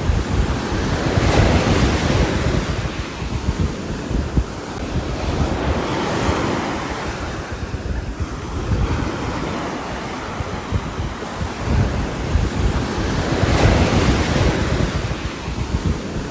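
Rain falling on a roof as a steady rushing hiss over a low rumble, swelling and easing in slow surges several seconds apart.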